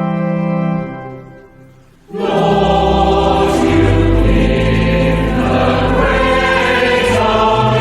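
A hymn's instrumental introduction ends on a held chord that fades away; about two seconds in, a choir comes in singing with accompaniment.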